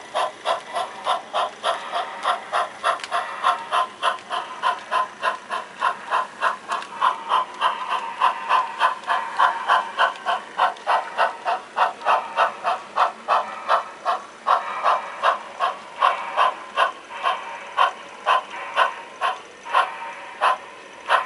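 Sound-equipped HO scale model steam locomotive chuffing steadily, about three chuffs a second.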